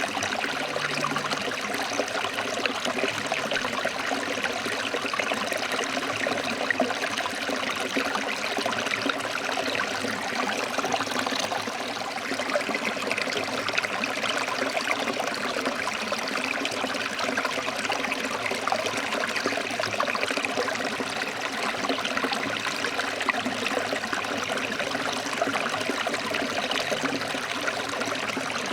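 Forest stream flowing and splashing over rocks: a steady, even rushing of water.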